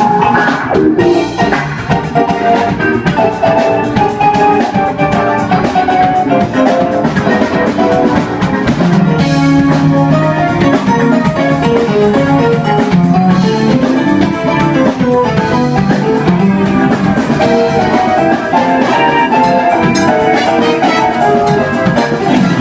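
Live band playing an instrumental funk-blues groove, with a drum kit keeping a steady beat under a melodic lead line.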